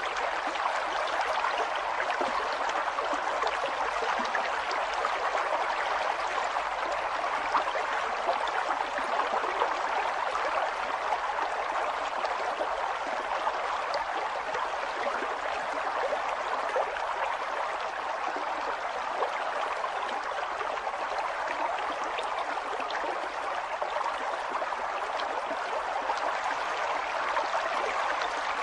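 River water flowing steadily over rocks, a continuous rushing with small gurgles and splashes.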